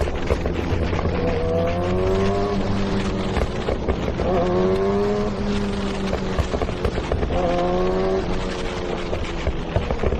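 Kawasaki Ninja sport bike engine pulling hard, its pitch climbing and then breaking off three times, as when accelerating up through the gears.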